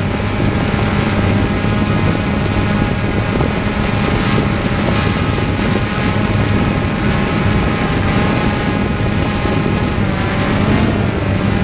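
Propeller aircraft's engine and propellers running steadily, heard from on board, with a low hum and a stack of higher tones. The pitch dips briefly and comes back up near the end.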